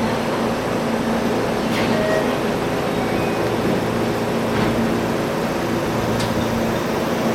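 Electric commuter train at a station platform, its equipment running with a steady noise and a low hum, with a few faint short chirps over it.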